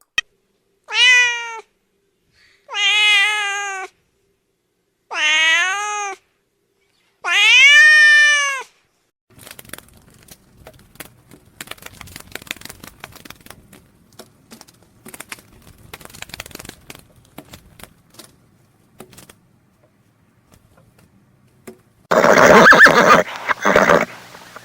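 Domestic cat meowing four times, each meow rising then falling in pitch, the last one the longest and loudest. Faint scattered clicks and rustling follow, and a loud, rough sound starts near the end.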